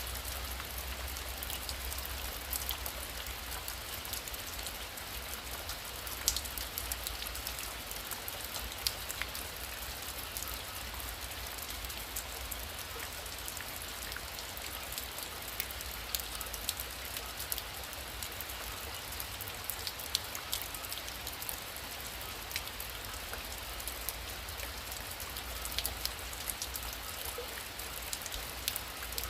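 Heavy rain falling steadily, a dense hiss dotted with frequent sharp drop taps, over a low steady rumble.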